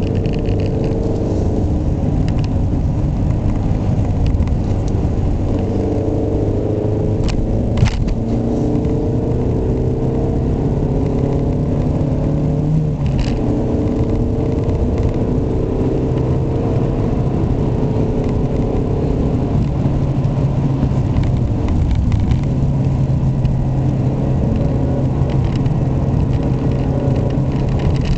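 Ford Mondeo estate's 1.6-litre petrol four-cylinder engine running under way, with tyre and road noise. The engine note holds steady and rises in pitch a couple of times, with a few short clicks in the middle. The owner calls this engine very noisy and reluctant to rev.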